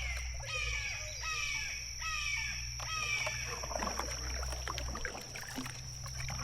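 A bird giving a series of five falling, harsh calls in quick succession, then stopping.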